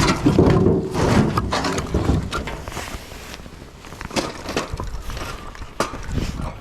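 Split firewood clunking and clattering as pieces are handled and stacked. There is a dense run of knocks in the first couple of seconds, then scattered single knocks.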